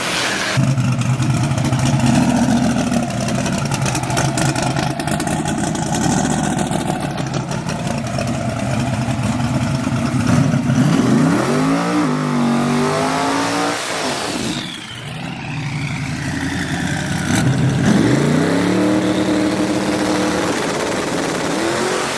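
V8 engine running, then revving up twice, its pitch climbing about eleven seconds in and again about eighteen seconds in, with a brief drop in between and a falling whine around the middle.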